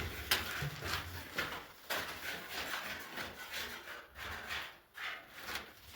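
Irregular scuffs and light knocks, several a second, with a low rumble in the first couple of seconds.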